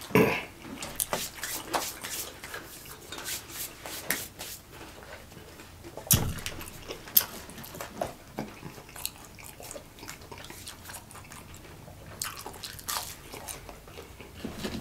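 Close-miked eating sounds: irregular wet smacks, clicks and crunches of people chewing Chicken McNuggets, with one louder click about six seconds in.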